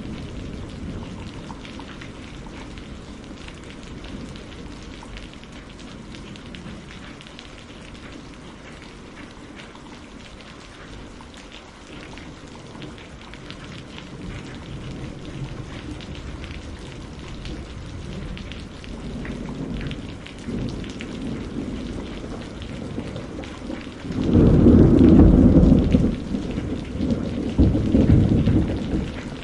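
Steady rain with the patter of many drops. Near the end a loud low rumble of thunder rolls in, eases briefly and swells again.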